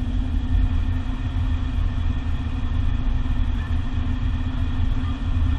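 Steady road noise inside a moving car, with engine and tyre rumble, as the side window is opened to let outside sound in.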